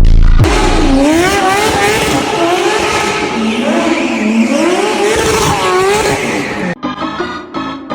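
A drifting car: tyres squealing and the engine running hard, the pitch wavering up and down for about six seconds. Bass-heavy music cuts out about half a second in and comes back near the end.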